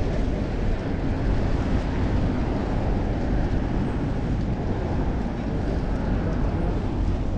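Steady rush of wind buffeting a chest-mounted action camera's microphone during a bicycle ride, mixed with road and traffic noise.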